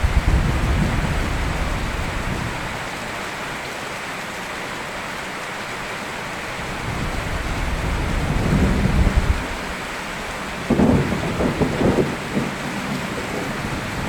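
Steady rain with thunder: a low rumble right at the start, another swelling up around eight seconds in, and a sharper, louder clap about eleven seconds in with rumbling after it.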